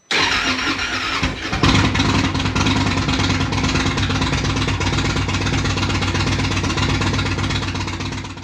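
Indian motorcycle engine starting: about a second of cranking, then it catches about a second and a half in and runs steadily, fading near the end.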